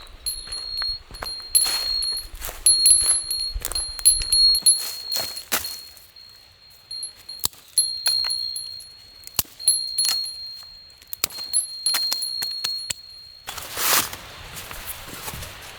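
A small metal bell jingling in quick, irregular strikes, holding one high ringing pitch with clicking under it. It stops abruptly about thirteen seconds in, followed by a brief rush of noise.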